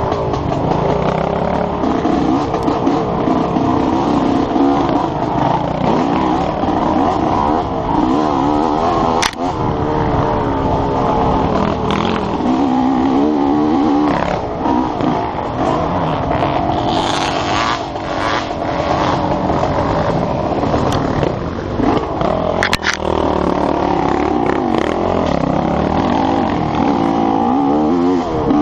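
Enduro motorcycle engine revving up and down continuously as the bike is ridden hard along a dirt trail, heard close from a helmet camera, with a couple of sharp knocks along the way.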